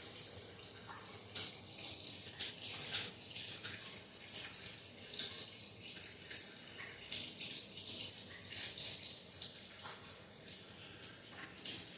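Water running and splashing, an uneven hiss broken by many small splashes.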